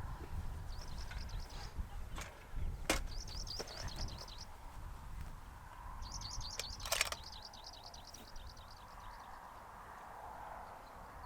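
A songbird singing repeated high, fast trilled phrases in three bouts, over a low wind rumble on the microphone. A few faint sharp clicks come at about two, three and seven seconds in.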